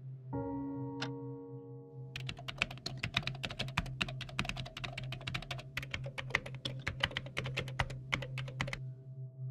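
Fast typing on a computer keyboard: a dense run of key clicks that starts about two seconds in and stops shortly before the end, over a low steady hum.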